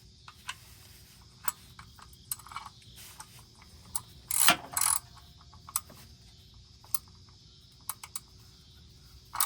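Scattered metallic clicks and clinks of a wrench working the nut on a car's stabilizer link bolt, with two louder clanks about halfway through.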